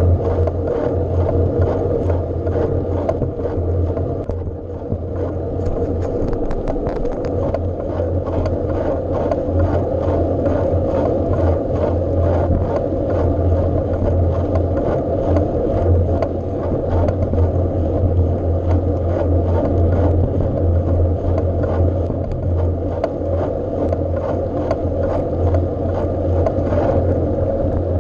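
Bike being ridden: a steady low rumble with a constant stream of small rattles and knocks.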